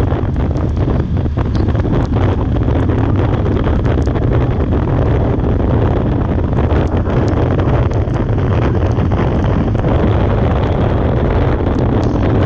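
Heavy wind buffeting the microphone over a steady low rumble, with frequent brief crackles.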